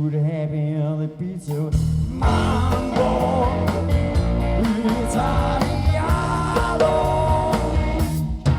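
Live band playing rock music with electric guitar: held chords and sharp drum-like hits, the full band coming in louder about two seconds in.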